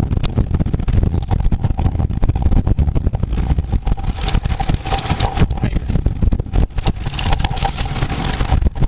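Wind buffeting the microphone of a camera moving at road-race speed: an uneven, gusting low rush, with a faint steady hum and more hiss from about halfway through.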